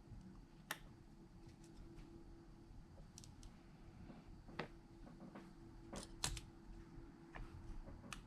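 Faint, scattered clicks of small repair tools against smartphone parts, a few seconds apart, with a close pair of sharper clicks about six seconds in, over a faint steady hum.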